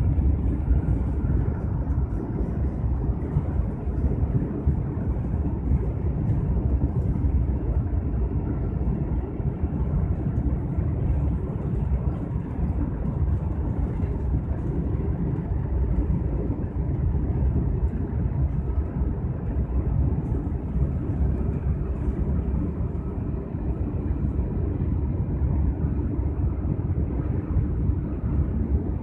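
Steady low rumble of a high-speed train running at speed, heard from inside the passenger cabin.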